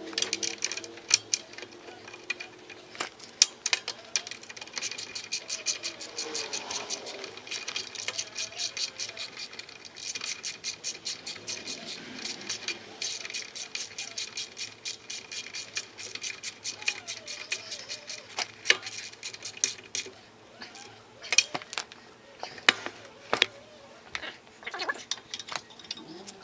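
Ratchet wrench clicking in quick, even runs of several clicks a second while engine-mount bolts are run in. Near the end the runs give way to scattered, louder metal knocks.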